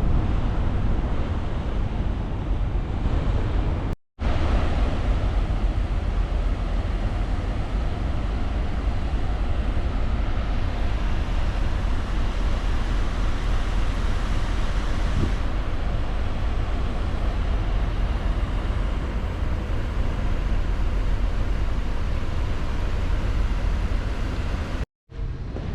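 Steady rumble and rush of a moving ferry under way, with wind buffeting the microphone. The sound cuts out briefly twice, about four seconds in and near the end.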